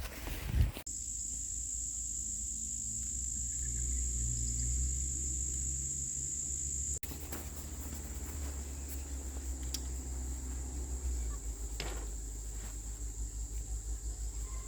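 Insects shrilling steadily in one high, even tone over a low rumble, after a short noisy thump at the start; the shrill drops out for an instant about halfway through.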